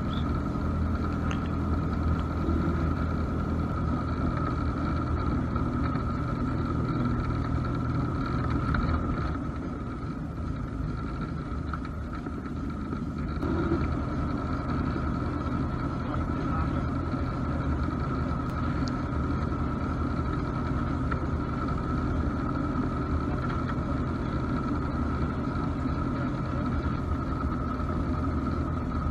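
Cessna 172's piston engine and propeller running steadily at low power, heard from inside the cabin. The engine note drops a little about ten seconds in and picks up again around thirteen seconds.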